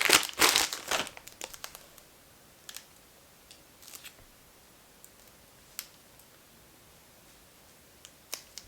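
Plastic packaging crinkling and rustling loudly for about the first second, then only a few faint, scattered rustles and taps.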